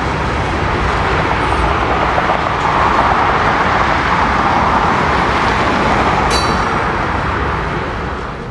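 Freight train rolling past, a steady rumble and rush that swells and then eases, with a brief high metallic squeal about six seconds in.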